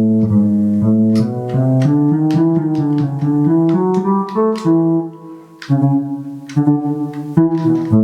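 Travel Sax 2 electronic wind instrument playing its fretless bass voice: a melodic line of low bass notes one after another, with a brief dip about five seconds in.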